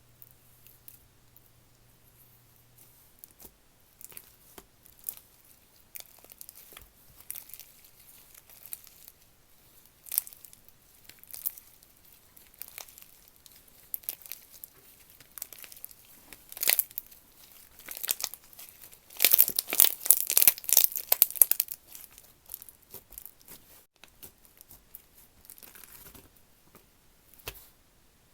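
Slime being squeezed, pressed and stretched by hand, giving scattered sharp clicks and crackling pops that build to a dense run of crackles about two-thirds of the way through.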